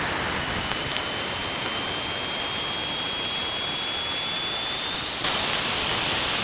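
Radio and plasma wave recording from the Cassini probe's RPWS instrument near Saturn's rings, converted to sound: a steady hiss of static with a faint high whistle slowly rising in pitch. About five seconds in the hiss steps up, louder and brighter.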